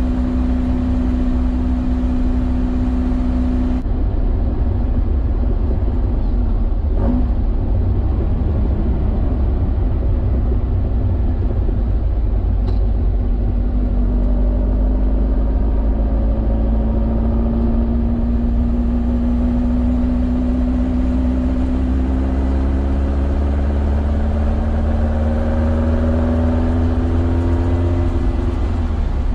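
A 2054cc stroker air-cooled VW flat-four on twin Weber IDF 44 carburettors, heard inside a Beetle's cabin under heavy low rumble. It holds a steady note at cruise, eases off as the car slows, then pulls again with its pitch climbing steadily through the second half. The pitch drops just before the end.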